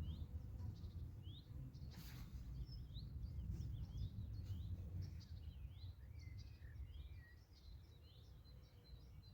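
Small birds chirping and twittering, many short quick calls overlapping, over a low steady rumble, with one sharp click about two seconds in.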